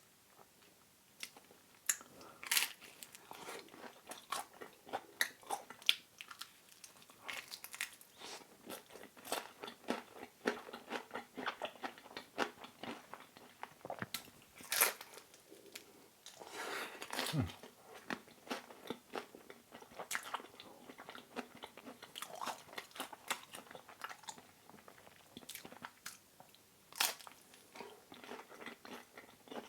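Close-miked chewing and biting into thin-crust seaweed pizza: a steady run of crisp crunches and wet mouth clicks.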